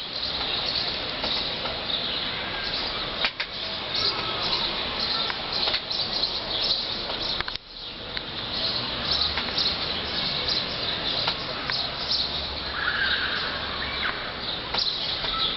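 Strong wind gusting, with a low rumble of wind buffeting the microphone.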